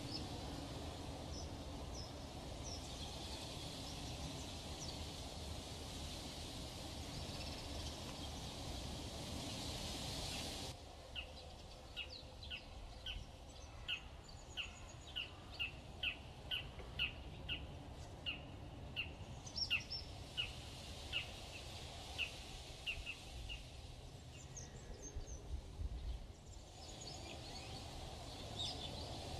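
Outdoor ambience of a steady background hiss with faint bird chirps, which drops away suddenly about ten seconds in. A bird then calls a long run of short, sharp chirps, about two a second, for some twelve seconds, and the steady hiss returns near the end.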